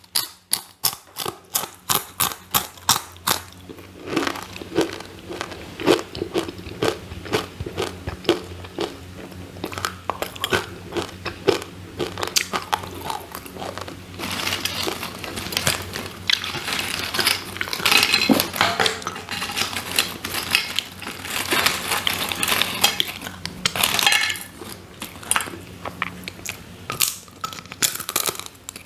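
Crispy fried purple and orange sweet potato chips crunching between the teeth and being chewed, close-miked. Quick regular crunches come in the first few seconds. About 14 s in a longer, denser stretch of dry crackling begins as chips are handled and bitten.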